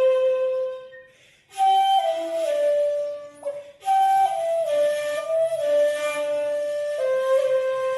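Slow flute melody in phrases that each start high and step down, with short pauses between them, settling on a long held low note near the end.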